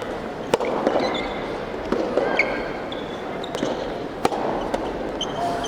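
Soft tennis rally in a hall: sharp pops of rackets striking the soft rubber ball and the ball bouncing, about a second or so apart, with short high shoe squeaks on the court floor.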